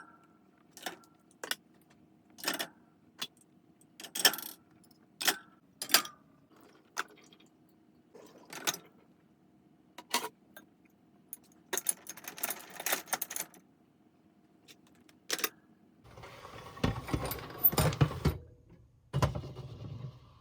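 Kitchen items being handled and set down during tidying: a string of separate clinks and knocks, then a jangling clatter about halfway through. A louder, longer stretch of rustling and clattering noise follows in the last few seconds.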